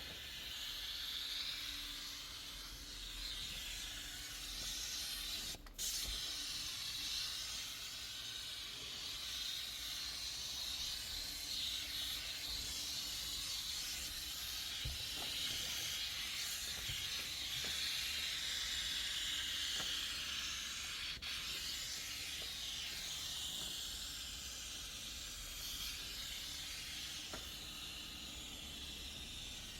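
Steady hiss of a pressurized cleaning jet used on a car, cut off for a moment about six seconds in and again about twenty-one seconds in.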